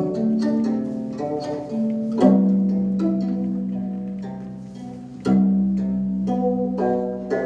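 Instrumental music of plucked strings: a few quick plucked notes, then two long low notes struck about two seconds and five seconds in, each left to ring and fade slowly.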